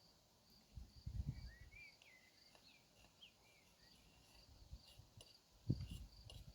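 A cricket chirping steadily, about two high chirps a second, with a bird giving a few short chirps about two seconds in. Brief low rumbles come about a second in and near the end.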